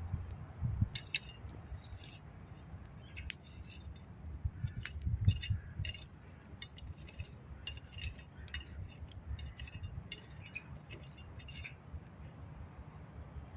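Many light, irregular clinks of utensils against metal cookware or dishes, over a low, uneven rumble.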